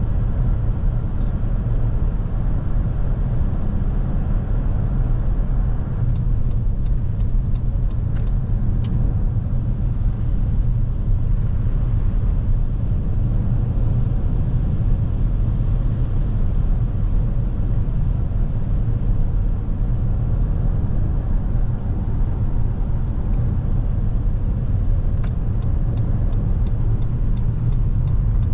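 Steady low road and tyre rumble inside the cabin of a 2023 Lexus NX350h hybrid SUV on the move, with two short runs of faint, evenly spaced ticks.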